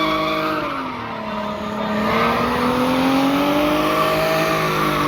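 A car engine held at high revs while its tyres squeal, typical of a car drifting or spinning doughnuts. The revs drop about a second in, then climb steadily back up.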